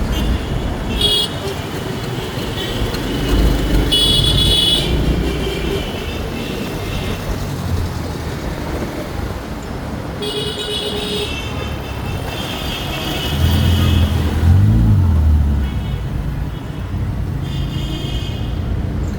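Road traffic heard while riding: a steady low rumble of engines and wind, with vehicle horns tooting briefly several times. A louder low engine sound swells about three-quarters of the way through.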